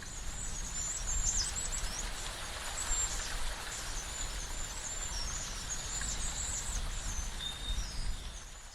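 Small birds chirping and twittering in many short high-pitched calls over a steady outdoor hiss and low rumble; the sound fades out at the end.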